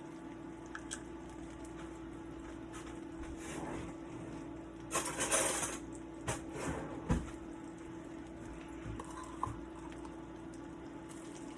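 Kitchen utensils and containers being handled while chili paste goes into a sauce: small clinks and taps, with a brief louder scraping burst about five seconds in, over a steady low hum.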